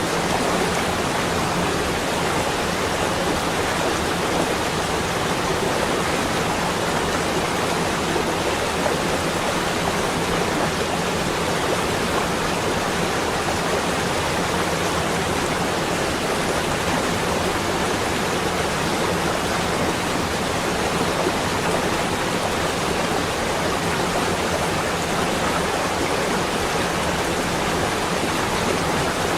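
Steady, even rushing noise that does not change throughout, with no separate sounds standing out.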